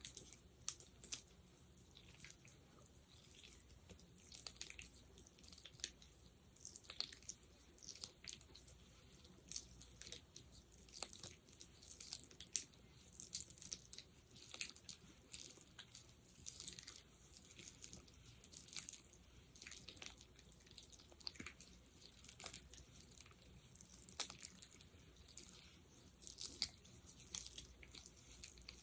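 Sticky gel squelching and crackling as it is handled close to the microphone: a quick, irregular stream of small wet clicks and pops.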